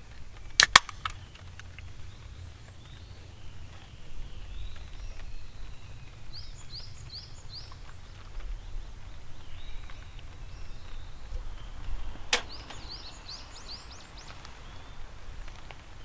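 Outdoor forest ambience with a low rumble. A small bird calls in two short series of quick, high chirps. Two sharp clicks come about half a second in, and another loud click comes about twelve seconds in.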